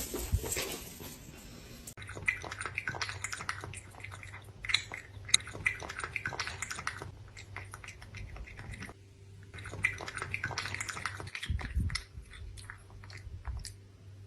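Chewing and crunching: quick, irregular clicks in clusters, over a steady low hum.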